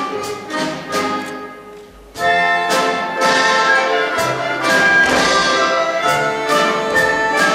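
Live orchestral music: a lighter passage with plucked strings fades away, then about two seconds in the full orchestra with brass comes in loud, with sharp accented beats.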